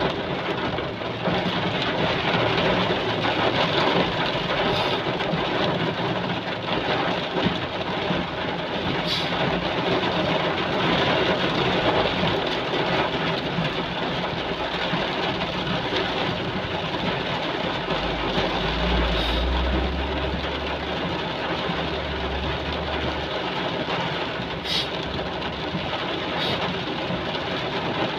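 Heavy rain pouring down in a steady, dense hiss. A low rumble comes in for several seconds about two-thirds of the way through.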